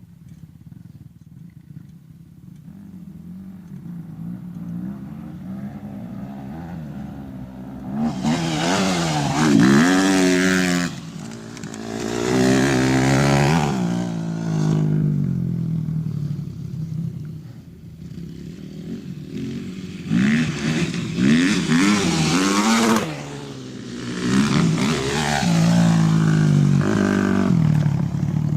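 Dirt bike engines revving hard in repeated bursts, pitch climbing and dropping as the throttle opens and closes, faint at first and much louder from about eight seconds in.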